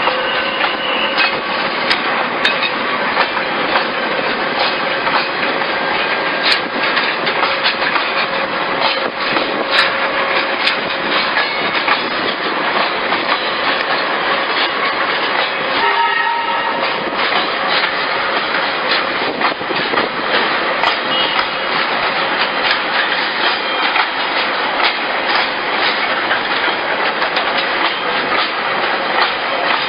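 Metre-gauge train running, its wheels clattering steadily over the rails. The horn sounds near the start and again briefly about halfway through.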